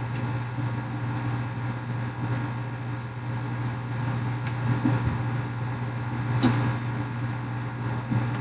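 Steady low machine hum, with a single sharp click about six and a half seconds in.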